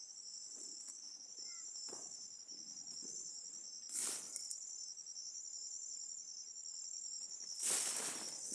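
Crickets trilling steadily, a continuous high-pitched pulsing chorus. It is broken by a brief rustle about four seconds in and another near the end.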